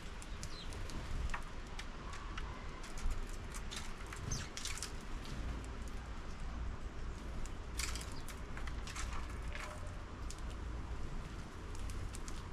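Sparrows pecking and hopping at a 3D-printed bird feeder: irregular light taps and clicks that come in clusters, with a few faint chirps, over a steady low outdoor rumble.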